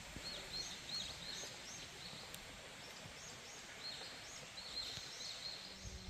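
A small songbird calling in two runs of short, quick high chirps over a steady background hiss. A low hum starts just before the end.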